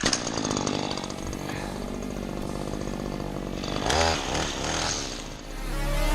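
Small petrol engine of garden power equipment running steadily, revving up briefly about four seconds in. Music fades in near the end.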